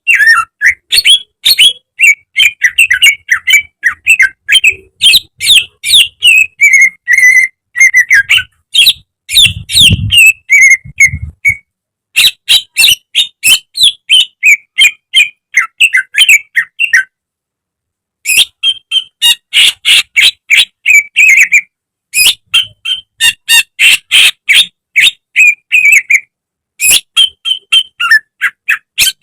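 Cucak ijo (greater green leafbird) singing a fast, loud stream of sweeping whistled and chattering notes, with one pause of about a second partway through.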